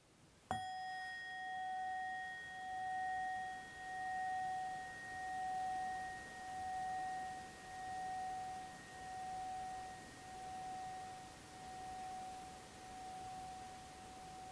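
A singing bowl struck once about half a second in, ringing out in one clear, fairly high tone that fades slowly with a steady wavering pulse.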